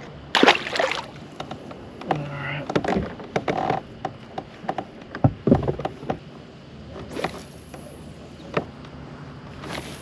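Irregular knocks, clunks and short rustling bursts as gear and the catch are handled aboard a plastic kayak, the loudest about half a second in and again about five seconds in.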